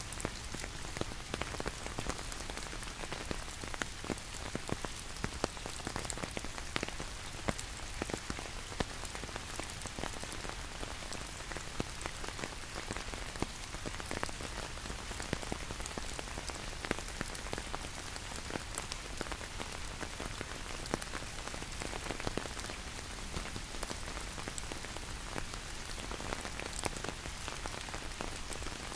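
Steady rain falling, with many separate drops ticking against the steady hiss.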